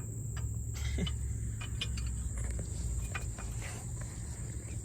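Crickets trilling steadily in a high, unbroken tone, with a low hum underneath and a few scattered light clicks and knocks.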